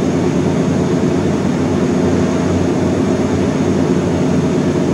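A steady low machine hum with an even rushing noise over it, unchanging throughout.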